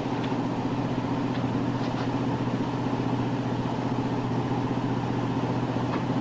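Steady engine drone, an even hum that holds one pitch and level throughout.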